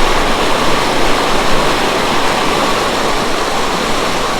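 Naga Falls, a large stepped mountain waterfall in strong flow, making a loud, steady rush of falling water.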